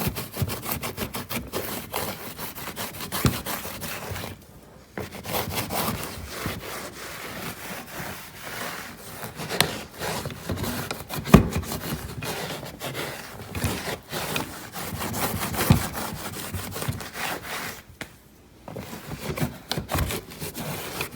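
An E-Cloth cleaning cloth scrubbing a hard surface with quick back-and-forth rubbing strokes and a few knocks, pausing briefly twice.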